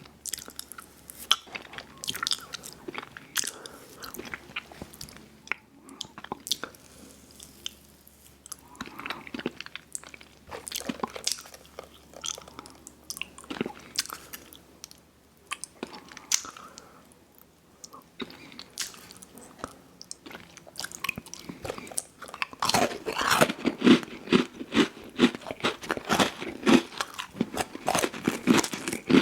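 Close-miked eating: scattered bites and crunchy chewing. From about two-thirds of the way in, the chewing turns into fast, loud, steady crunching.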